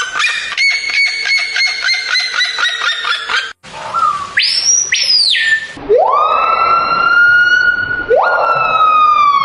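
Bird calls. First comes a rapid series of repeated notes, about four a second. After a sudden break there is a short rising call, then two long, drawn-out siren-like whistles, the second falling in pitch near the end.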